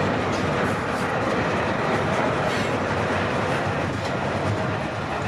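CPKC freight train rolling past, its cars making a steady noise of steel wheels on the rails, with a few faint clacks.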